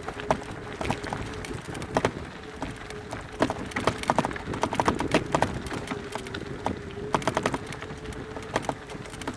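Mountain bike rattling and knocking as it rolls over a rough, rocky trail, with irregular sharp clacks from the frame and wheels and a faint steady hum underneath.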